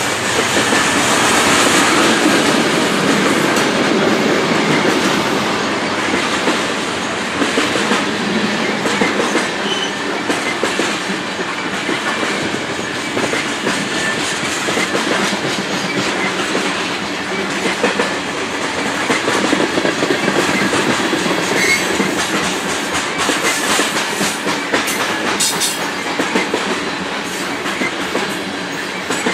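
Loaded coal hopper cars of a long freight train rolling past at steady speed, their steel wheels clattering over rail joints in a continuous, loud clickety-clack.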